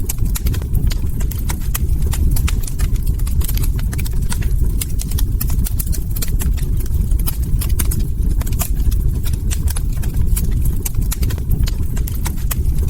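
Log fire crackling: many sharp, irregular pops and snaps over a steady low rumble of burning wood.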